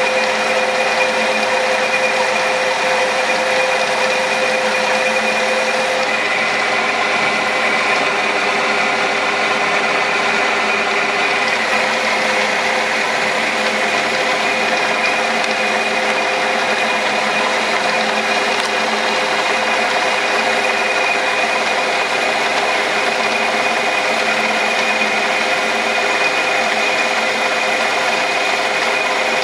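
Metal lathe running steadily while cutting, a constant mechanical hum with a few steady whining tones.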